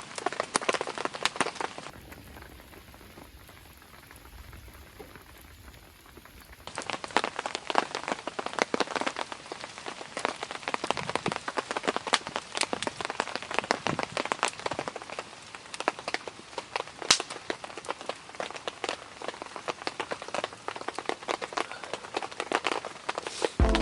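Rain falling, with many sharp, separate drop hits on a near surface. About two seconds in, the hits give way for a few seconds to a quieter, even hiss with a low rumble, then the close drop hits return.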